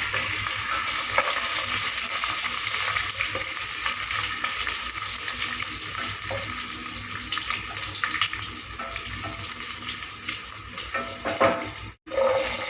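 Dried red chillies, curry leaves and ginger-garlic paste sizzling in hot groundnut oil in a pan, stirred now and then. The sound breaks off sharply for a moment near the end.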